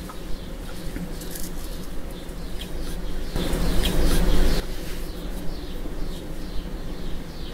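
Small birds chirping outside, short falling chirps repeated about twice a second. About three and a half seconds in there is a single rushing swish lasting just over a second.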